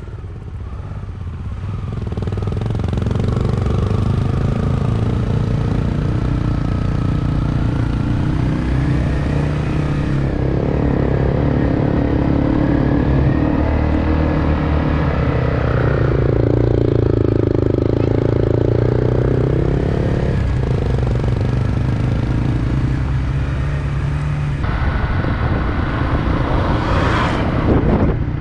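Motorcycle engine running on the move, its pitch rising and falling as the bike speeds up and slows. The sound changes abruptly twice.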